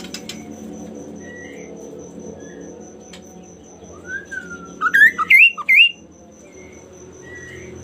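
Songbird singing: scattered soft chirps, then a loud burst of four or five quick rising whistled notes about four seconds in. A steady faint high-pitched pulsing tone runs behind it.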